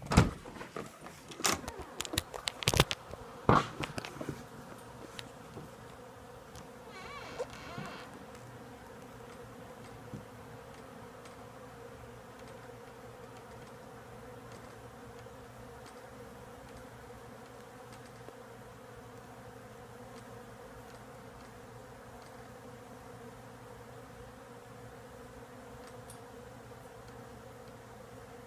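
A large colony of bees humming steadily, a low even drone. In the first few seconds a handful of sharp clicks and knocks sound as the door is opened onto them.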